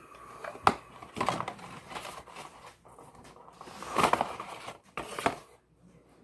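Chocolate bar packaging being handled and opened: crinkling and rustling in several short bursts, loudest about four seconds in.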